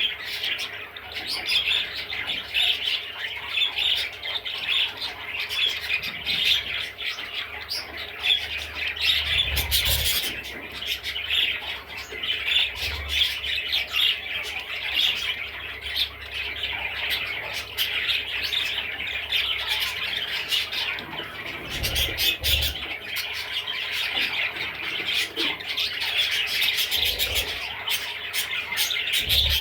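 Budgerigar chattering and warbling without a break, a dense run of squawks, chirps and clicks. A few soft low thumps come through about a third of the way in and again later.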